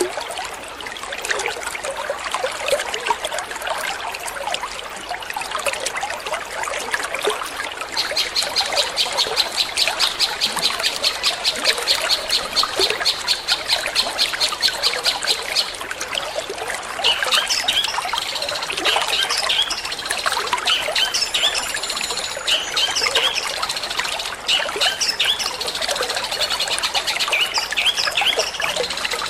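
Long-tailed shrike singing over steadily trickling water. Partway in it gives a fast, evenly repeated trill for several seconds, then switches to varied chattering phrases.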